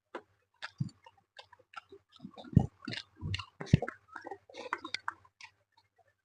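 A person chewing fish and rice close to the microphone: irregular wet mouth smacks and clicks, with a few louder low knocks.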